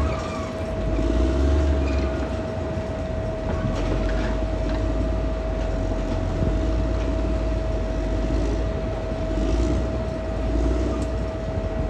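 Caterpillar D6R XL crawler bulldozer working: the diesel engine runs with a deep rumble and a steady high whine, over the clatter of its steel tracks.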